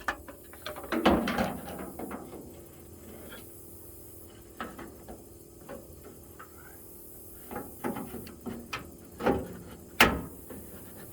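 A metal toolbox drawer being worked back onto its slides: scattered clunks, clicks and scrapes of sheet metal, with the loudest knock about ten seconds in.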